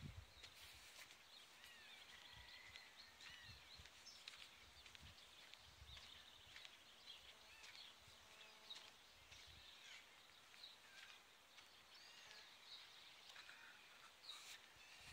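Faint outdoor ambience of many small birds chirping and calling in short, scattered notes, with occasional brief low thumps.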